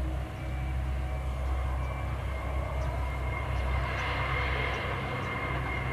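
Single-car diesel railcar of the Kyoto Tango Railway running past at a distance: a steady low engine rumble with a faint thin whine above it, swelling slightly in the middle.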